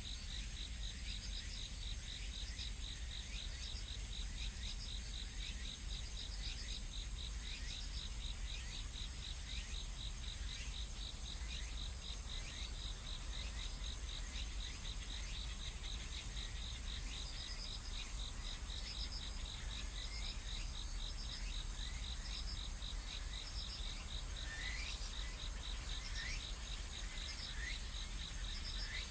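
Insect chorus: a steady high-pitched drone with a fast, even pulsing trill under it, and short falling chirps that come more often near the end.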